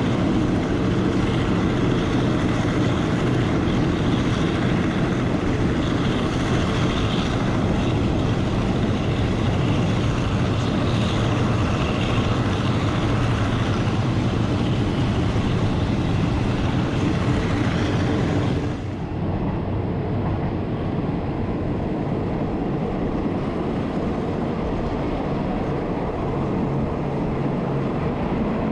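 Passenger train running on the line, a steady rumble with wind and rail noise. About two-thirds through the high hiss thins out and the noise settles a little quieter.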